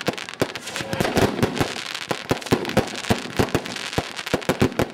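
Fireworks going off in a rapid, irregular volley of sharp bangs and cracks, several a second.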